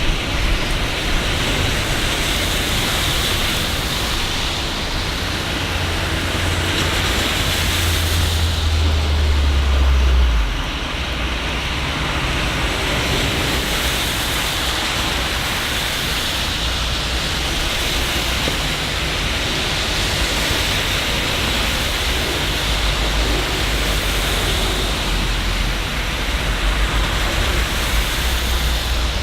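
Steady rain hiss of a city rainstorm. A deep low rumble swells over the first ten seconds and cuts off abruptly, and a fainter low rumble returns later.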